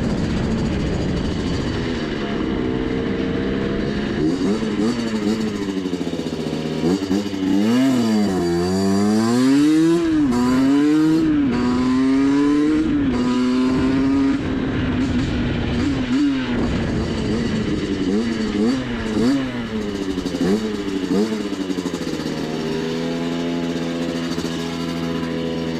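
Rieju MRT 50's small 50cc two-stroke single-cylinder engine running, holding a steady note at first. It is revved up and down repeatedly through the middle, then settles back to a steady note near the end.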